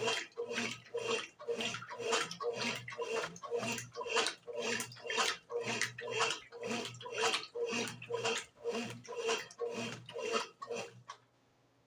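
Brastemp BWG11 washing machine churning a load of bed and bath linen in water, with a steady rhythm of about two to three sloshing strokes a second. The churning stops about eleven seconds in.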